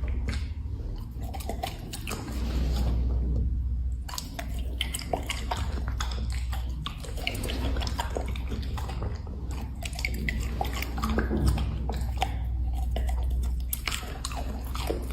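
Black Labrador chewing and biting seafood treats, with many irregular wet smacks and crunches, over a steady low hum.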